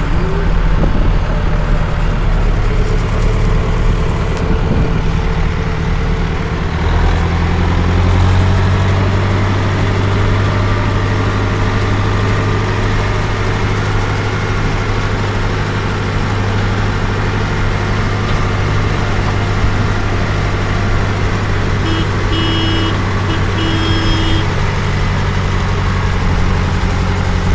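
Tractor engine running steadily under work, its low note settling and growing stronger about seven seconds in. A short run of broken high beeps sounds near the end.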